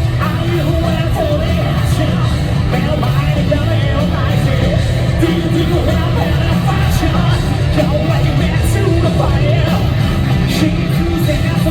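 Live J-rock band playing at full volume: distorted electric guitars, bass and drums, with a male singer's voice over them.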